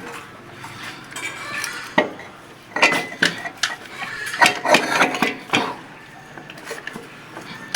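Metal hand tools clinking and tapping against the valve gear of a Ford 5000 tractor engine during a valve clearance adjustment, with a cluster of sharp clinks through the middle.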